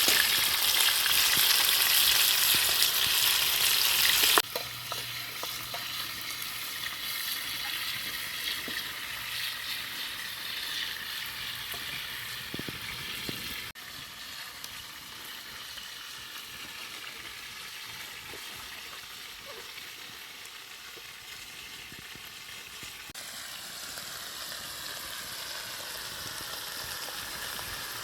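Food sizzling as it fries in hot oil in a pan. It is loud at first, then drops suddenly to a quieter sizzle about four seconds in, with a couple more abrupt changes later.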